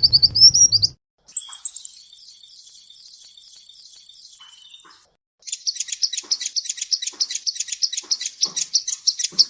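Songbird song in three spliced recordings: fast repeated rising chirps that stop about a second in, then a very fast, even high trill lasting about three and a half seconds, then after a short pause a rapid run of sharp chips, about eight a second.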